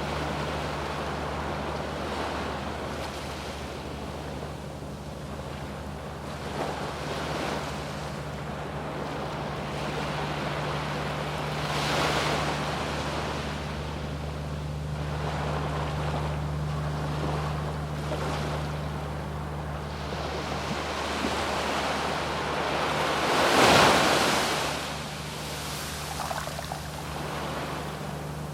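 Surf breaking on a sandy beach, the wash swelling and falling back in waves, with the biggest breaker about twenty-four seconds in.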